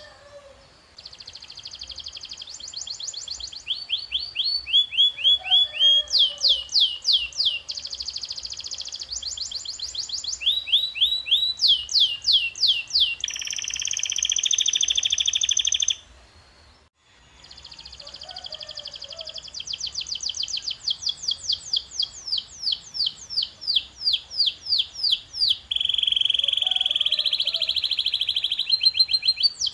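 Canary singing: phrase after phrase of rapid trills, each a falling whistled note repeated several times a second, switching to a new pattern every second or two. The song breaks off briefly about halfway through.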